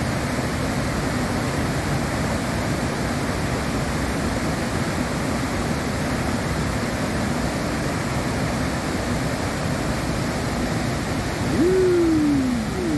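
The steady, dense rush of the Iguazu Falls' huge cascades pouring down. Near the end comes a short pitched sound, about a second long, that rises and then falls in pitch.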